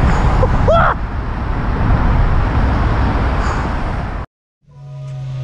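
Wind and road noise rushing over a riding motorcycle's camera microphone, with a short gliding squeal under a second in. It cuts off abruptly about four seconds in; after a brief silence a steady low hum fades in.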